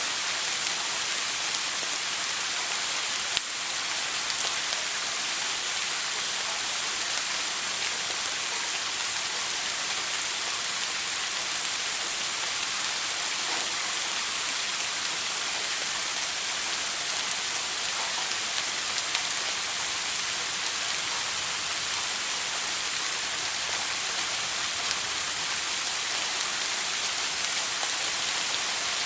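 Shower water running steadily, an even spraying hiss of water falling onto a surface, with one brief click about three and a half seconds in.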